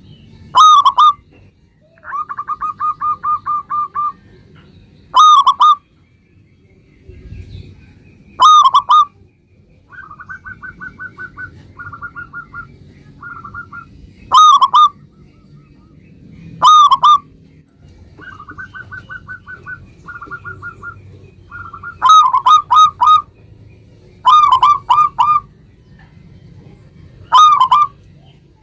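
Zebra dove (perkutut) singing: loud ringing coos, single or in quick groups of two or three, alternate with softer rapid stuttering trills.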